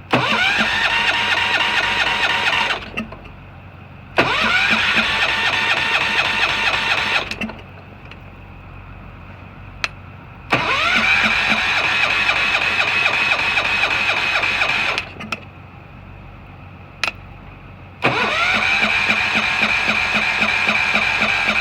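Allis-Chalmers 716 hydro garden tractor's electric starter cranking the cold engine in four attempts of about three to four seconds each. Each attempt opens with a rising whine as the starter spins up, then steady rhythmic cranking. The engine never catches; the owner suspects a spark problem.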